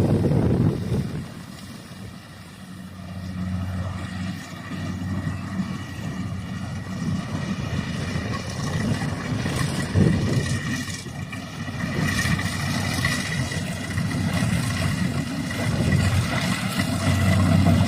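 Combine harvester engine running steadily. It fades somewhat about two seconds in and builds back up, with a high whine joining in over the last several seconds.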